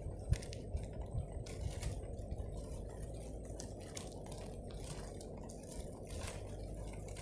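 Wind rumbling on the microphone, with irregular rustling and crackling all the way through and a few soft knocks in the first two seconds.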